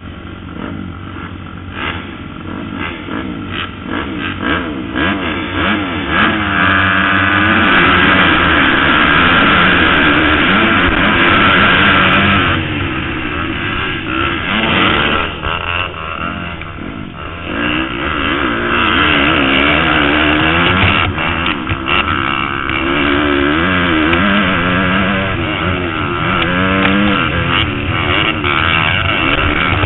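Motocross bike engines running hard, the pitch rising and falling again and again with throttle and gear changes. Loud, easing off for a few seconds around the middle before picking up again.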